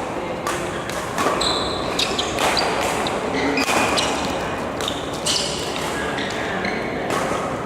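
A badminton rally in a sports hall: rackets smacking a shuttlecock at irregular intervals, with short high squeaks of court shoes between the shots.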